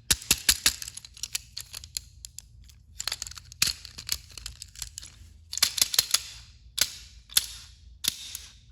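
Handling noise from a plastic battery-powered toy train engine being tested: an irregular run of sharp clicks and taps, with a few short rasping bursts.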